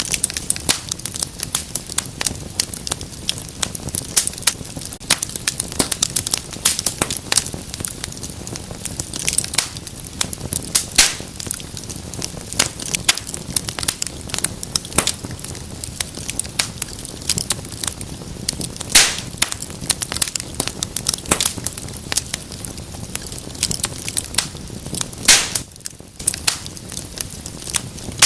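Wood fire crackling and popping in a fireplace: a dense run of small snaps over a low steady rush of flame, with a few louder pops scattered through.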